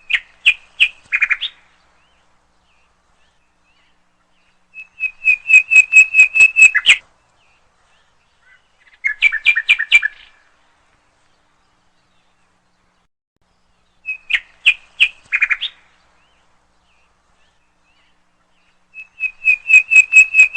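A bird chirping in five short bursts of quick, evenly spaced whistled notes, with a few seconds of silence between bursts.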